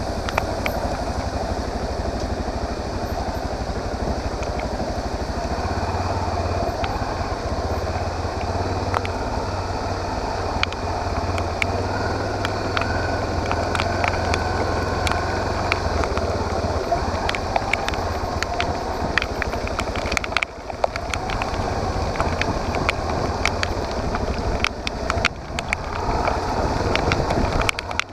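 Motorcycle engine running steadily under way, with wind rushing over the microphone and scattered sharp ticks throughout. The sound drops briefly about twenty seconds in.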